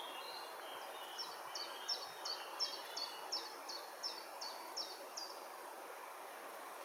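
Steady rush of water from a small river cascade, with a bird singing a run of about eleven quick, repeated, high falling notes in the first five seconds, and softer twittering before it.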